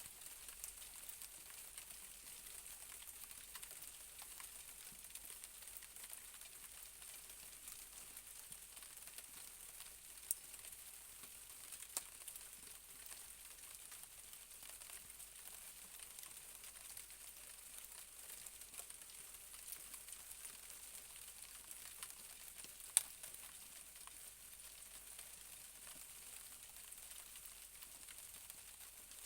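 Light night rain falling in a faint steady hiss, with three sharp drip clicks, the loudest about two thirds of the way through.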